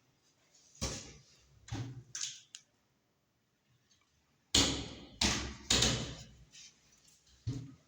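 Kitchen cabinet doors being opened and shut, each making a knock. A few lighter knocks come first, then a louder run of three about halfway through, and one more near the end.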